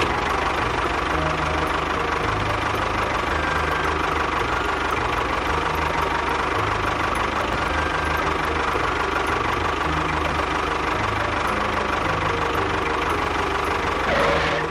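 A small engine running steadily at a constant speed, with a little swell in level near the end before it stops.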